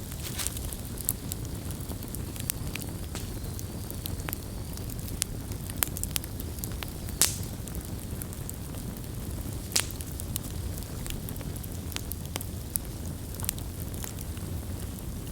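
Campfire burning: a steady low rumble of flames with scattered sharp crackles and pops, the loudest pops about seven and ten seconds in.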